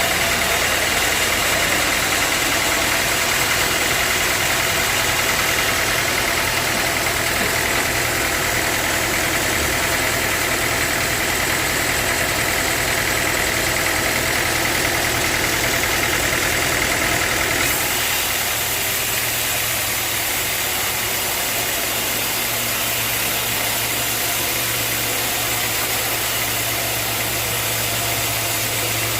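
Sawmill machinery running steadily with a high whine and a low hum; about eighteen seconds in the sound shifts, the whine dropping away and the low hum growing.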